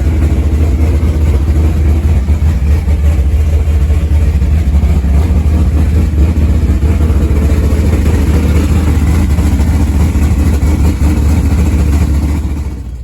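Loud car engine running steadily close by, a deep rumble. It drops away sharply near the end.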